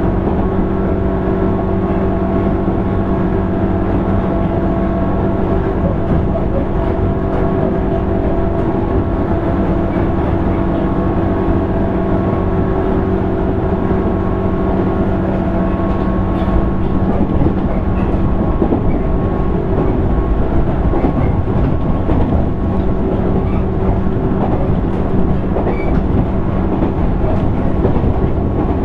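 JR East 205 series 600 subseries electric train running, heard inside motor car MoHa 204-604: steady rumble of wheels on rail with a constant-pitch whine from the motor and gears. About halfway through the whine fades and the rumble grows rougher, then the whine returns near the end.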